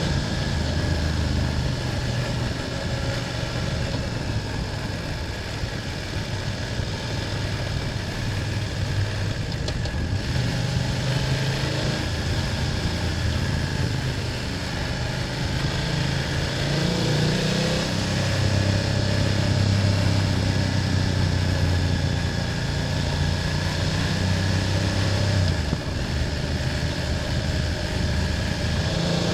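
BMW F800GS parallel-twin engine running while the motorcycle is ridden, its note shifting with the throttle and rising a little past halfway.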